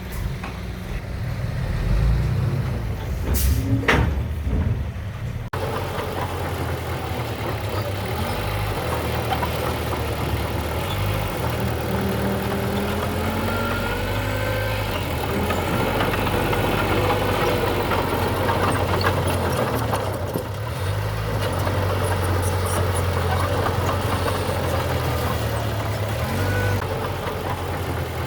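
Heavy diesel engines of earth-moving machinery running steadily with a deep rumble. Early on there is one short sharp hiss or clank, then the sound changes abruptly. Later there is light metallic squeaking and clatter over the engine drone.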